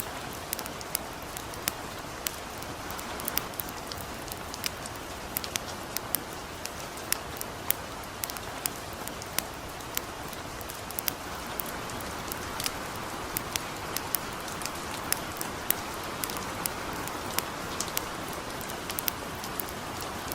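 Light rain falling with a steady soft hiss, mixed with a campfire crackling in frequent short, sharp pops.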